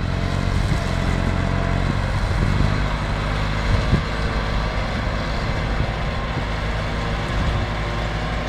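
Tractor engine running steadily, driving a Zomax AG flail mulcher, with a few short knocks about two and a half and four seconds in.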